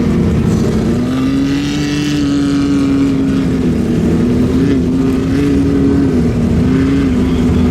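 Off-road vehicle engine running steadily at a high pitch, rising a little about a second in and then wavering up and down.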